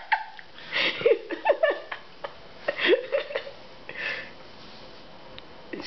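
A person giggling in short breathy bursts, a few squeaky rises and falls in pitch each time, with quieter gaps between the bursts.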